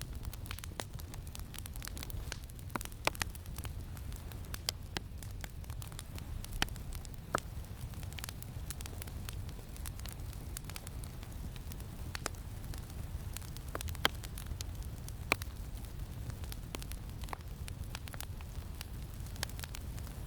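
Campfire crackling, with irregular sharp pops of burning wood, a few louder than the rest, over a steady low rumble of wind.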